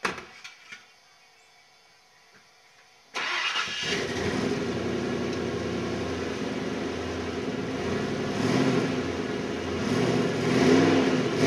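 A click, then about three seconds in the 1998 Ford F-150's 5.4-litre Triton V8 starts suddenly and runs, its revs swelling a couple of times near the end.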